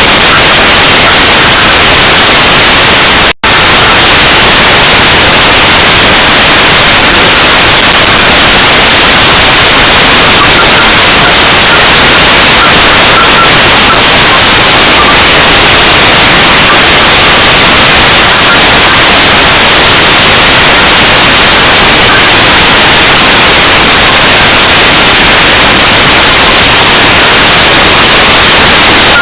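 Loud, steady static-like hiss with no separate bangs in it, cutting out for an instant about three and a half seconds in.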